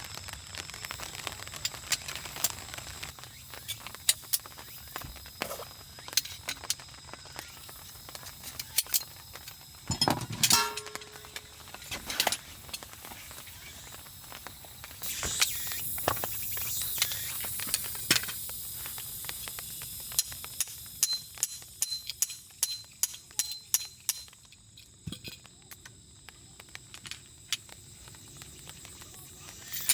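Wood fire in a fire pit crackling with irregular sharp pops, which come thicker near the end, and a few seconds of hissing about halfway through.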